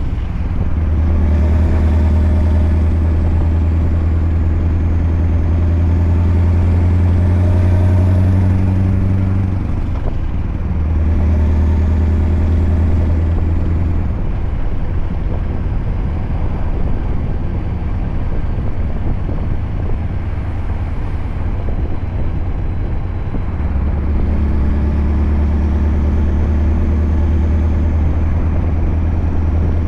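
Scania R580's V8 diesel with a straight-piped 8-inch exhaust running on the road as a deep, steady drone. It eases off twice, briefly once and then for several seconds in the middle, before pulling hard again.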